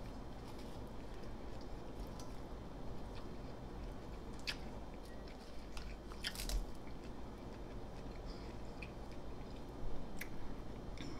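Close-miked chewing of potato chips mixed with corned beef, lettuce and onion, with a few sharp crunches scattered through, the loudest around the middle.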